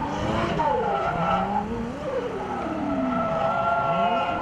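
Toyota Cressida drift car's turbocharged 1JZ-VVTi straight-six revving up and down through a drift, with the tyres squealing steadily.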